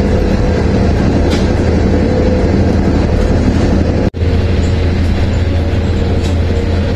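Passenger train running at speed, heard from inside the carriage: a steady low rumble with a faint hum over it. It breaks off for an instant about four seconds in, then carries on unchanged.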